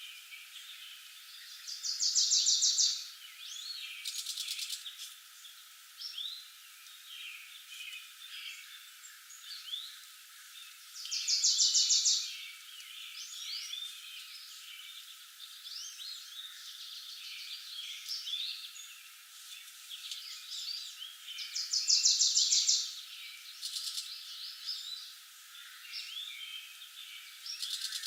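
A forest bird chorus: many short chirps and calls, with a loud rapid trill lasting about a second that comes back about every ten seconds.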